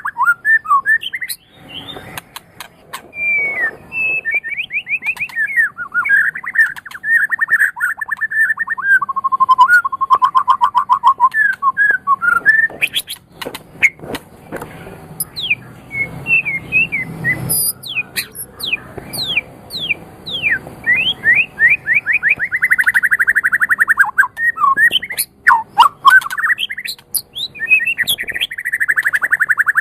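White-rumped shama (murai batu) singing a long, varied song: fast rattling trills around 1–2 kHz alternating with quick rising and falling whistled notes.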